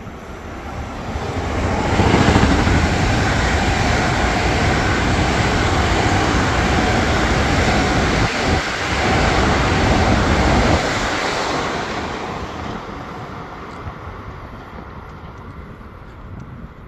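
Long Island Rail Road train passing at speed: a rushing noise of wheels and cars that builds over about two seconds, stays loud for about nine seconds, then fades away.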